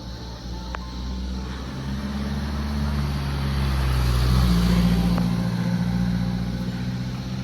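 A motor vehicle passes close by: its engine grows louder to a peak about four and a half seconds in, drops in pitch as it goes past, then fades.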